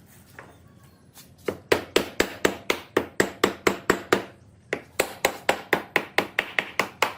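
Repeated hammering in quick, even strokes of about four to five a second, in two runs with a short pause near the middle.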